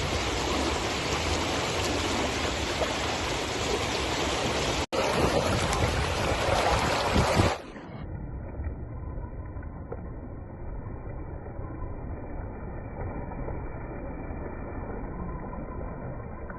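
Steady rushing of water at a weir. A brief dropout comes just under five seconds in, and about two-thirds through the sound turns quieter and muffled.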